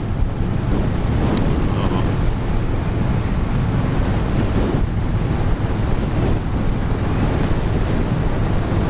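Wind buffeting a motorcycle rider's camera microphone at steady road speed, with the motorcycle's engine running underneath.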